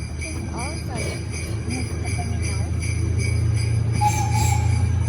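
Jingle bells ringing in a quick, steady shake over the low hum of the miniature train running, the hum growing louder from about halfway.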